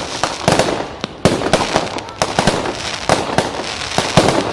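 Fireworks going off in a rapid, dense run: many sharp bangs a few tenths of a second apart, with crackling between them.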